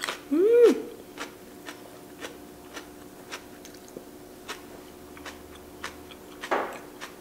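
Close-miked crunchy chewing of a mouthful of raw Korean green pepper, crisp crunches coming evenly about twice a second. It opens with a short hummed 'mm' that rises and falls, and one louder, longer rasp comes near the end.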